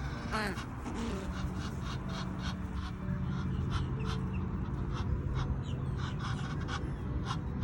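A flock of birds calling: a harsh call with falling pitch about half a second in, then many short calls, over a steady low hum.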